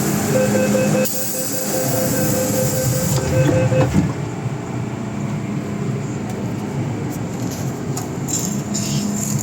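MTR M-Train running along the track: a steady rumble of wheels on rail, with a steady whine that cuts off about four seconds in, followed by a brief knock.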